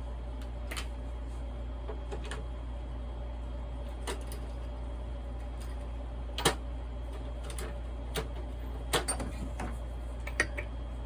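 Scattered sharp clicks and clinks of hand tools and chainsaw parts being handled on a workbench, over a steady low hum.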